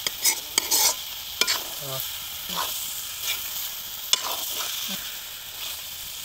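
Chicken pieces frying and sizzling in a large metal wok while a spatula stirs and scrapes the pan. The scrapes come thick in the first second, then more sparsely over a steady sizzle.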